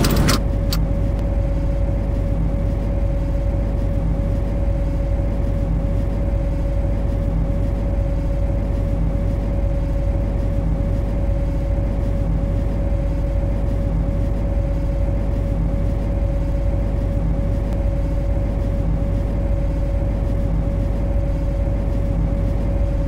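Steady electrical hum and low rumble of an MTR C-Train electric multiple unit standing at a platform with its equipment running. One constant high tone sits over the rumble and does not change.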